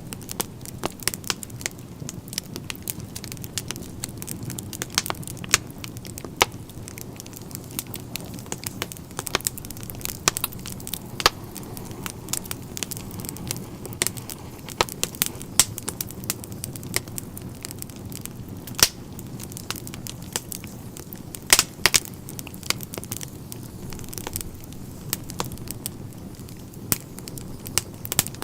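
Wood fire burning in a fireplace, with a steady low rumble of the flames and many sharp, irregular crackles and pops, a few of them louder.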